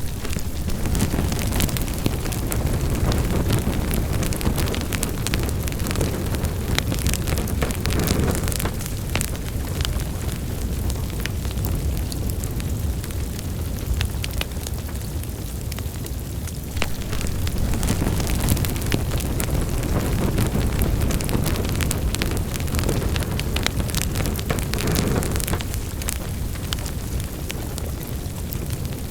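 Wood fire burning in a fireplace: a low, steady rumble of flames with frequent sharp crackles and pops scattered through it, the rumble swelling and easing over several seconds.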